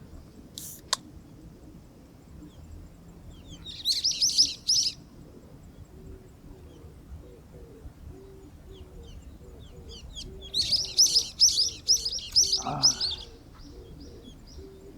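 Bird song: a small bird twittering in two quick bursts of high chirps, a short one about four seconds in and a longer one around ten seconds in, over a faint row of short low repeated notes.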